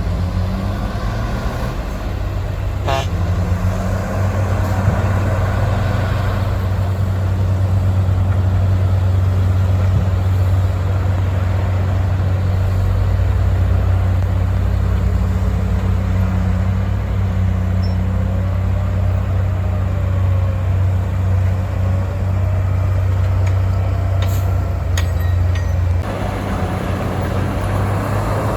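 Heavy diesel engines of dump trucks and a crawler bulldozer running steadily at work, a deep continuous drone with a sharp click about three seconds in. The sound changes abruptly near the end.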